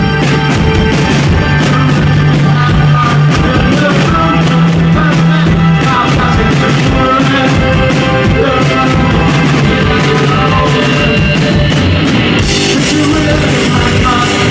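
Loud rock music with guitar, drums and singing, played by a band.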